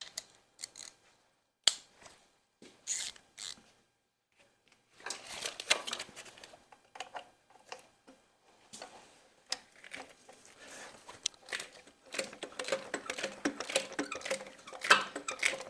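Hand tools working a bolt on an engine's accessory bracket: a few sharp metal clicks at first, then a long run of quick clicking and clinking that grows denser toward the end.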